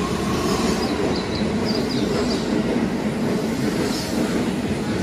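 Keihan electric train running past along an underground station platform: a steady rumble of wheels on rail, with a run of short high wheel squeaks in the first half and one more near the end.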